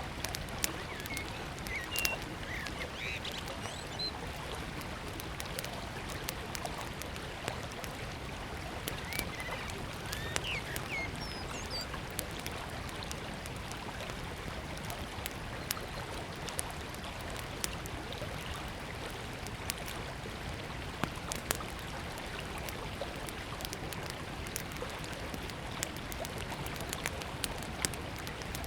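Small wood fire crackling with frequent sharp pops over the steady rush of river water. A bird chirps a few times in the first dozen seconds.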